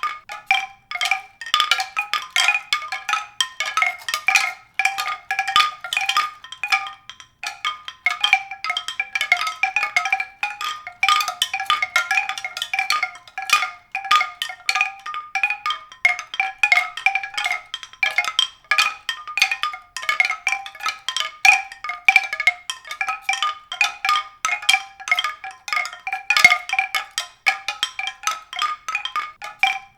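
Tuned percussion struck in quick, irregular succession, many notes a second, all in a high register with no bass.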